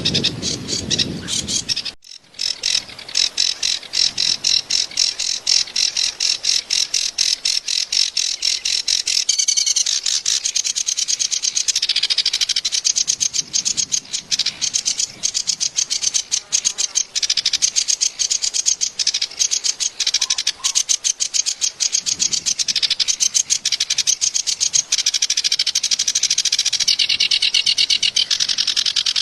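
Kerak basi (a reed warbler) singing its harsh, chattering song: a fast, unbroken string of rasping notes, many a second. The song breaks off briefly about two seconds in.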